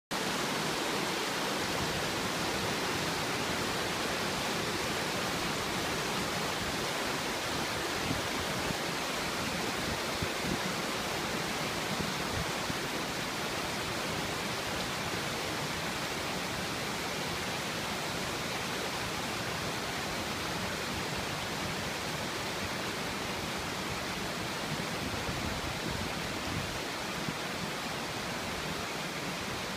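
Mountain waterfall: a steady rush of falling water.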